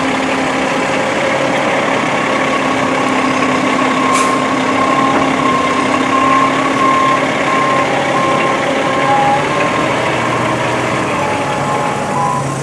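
A 2005 Seagrave fire engine's diesel engine running steadily while it backs in, its reversing alarm beeping over and over from about two seconds in. A short hiss sounds about four seconds in.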